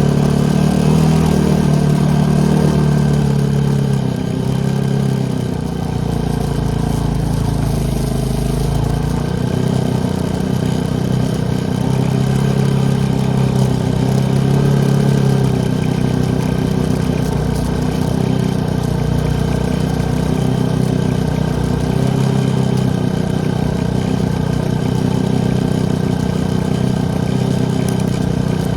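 ATV engine running steadily under way, its pitch shifting a little with the throttle, with a brief easing off about five seconds in.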